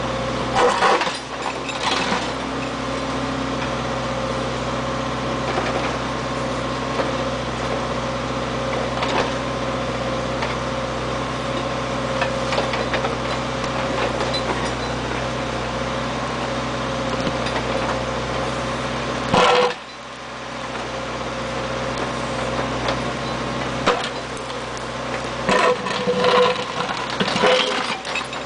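Backhoe engine running steadily, with a few louder sudden bursts or knocks about a second in, about two-thirds of the way through, and several near the end.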